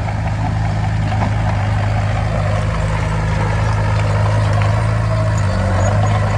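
Heavy diesel engine of construction machinery running steadily at a low, even pitch, with a brief shift in its note about five and a half seconds in.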